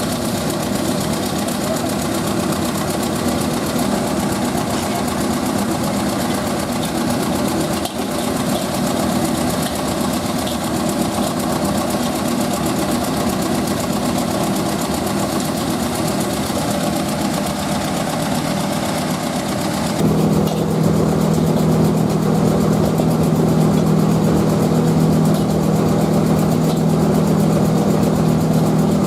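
Steady drone of a motor running, with a low hum under a hiss. About two-thirds of the way through the sound shifts suddenly: the hiss drops away and the low hum gets louder.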